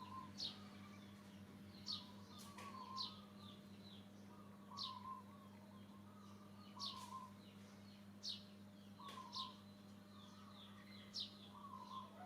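Faint bird calls: short, high, sharply falling chirps repeated every second or so, mixed with lower warbling notes, over a steady low hum.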